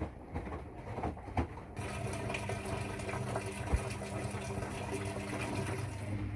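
Washing machine running water: after a few faint knocks, a steady hum with rushing water starts about two seconds in.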